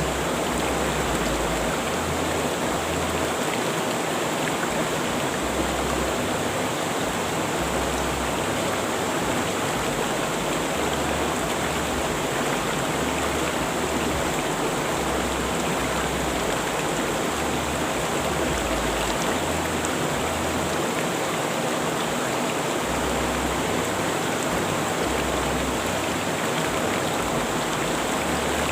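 River water rushing over rocks in a steady, unbroken flow.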